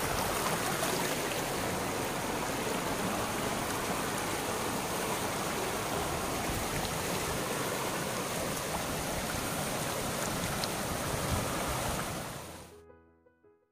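Fast-flowing stream rushing steadily over a natural rock water slide, fading out to silence about twelve seconds in.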